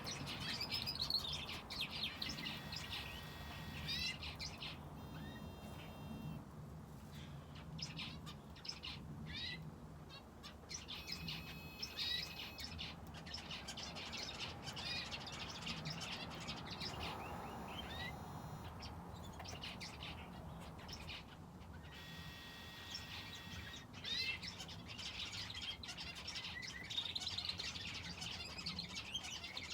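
Small aviary finches and a canary chirping and calling, many birds at once: a busy mix of short, quick chirps and runs of rapidly repeated notes, with no pauses between them.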